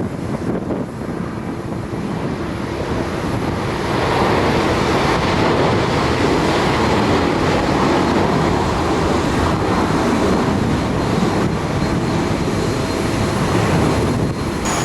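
Boeing 777 twin jet engines at takeoff power on departure: a broad roar that swells about four seconds in and holds loud.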